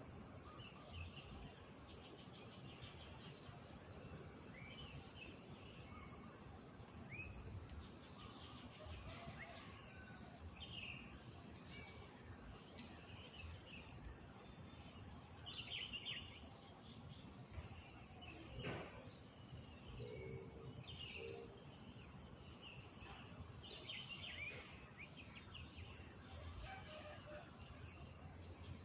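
Faint rural morning ambience: scattered short bird chirps over a steady high-pitched drone, with a low rumble beneath. A single sharp click comes about two-thirds of the way through.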